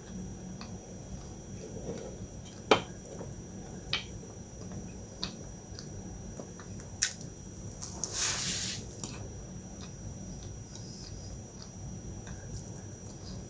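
Close-up chewing and mouth sounds of eating a soft, cream-filled milk pie pastry: small wet smacks and clicks scattered through, one sharper click a few seconds in, and a short breathy rush a little past the middle.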